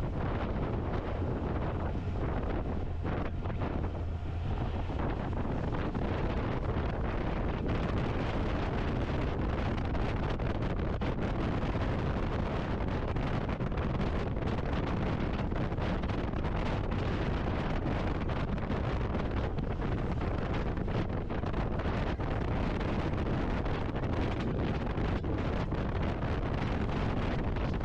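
Wind rushing over the microphone of a camera on a moving motorcycle, a steady noise with a low drone underneath.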